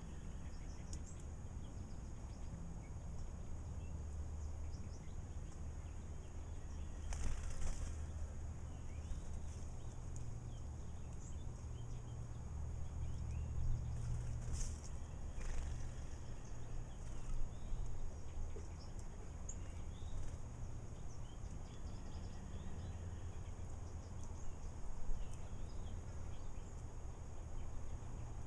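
Small birds bathing in a bird bath: a few short flurries of wing-flapping and splashing, with faint scattered chirps over a steady low rumble.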